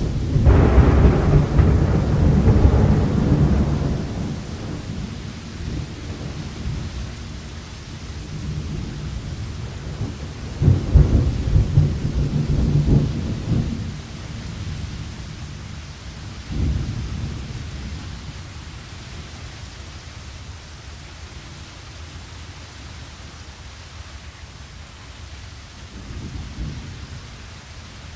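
Thunderstorm: steady rain with deep rolling thunder, a long loud rumble at the start fading over about four seconds, another rolling peal about halfway, a short crack a few seconds later and a softer rumble near the end.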